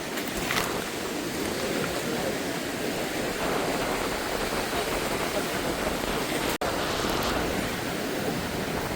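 Steady rush of sea waves with wind on the microphone, broken by a momentary dropout about two-thirds of the way through.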